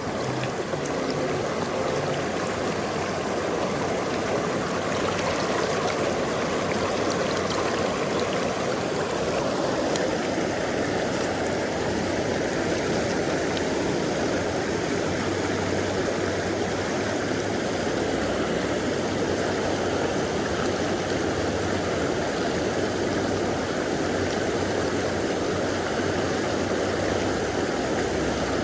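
River water rushing steadily over shallow rapids, a constant even roar.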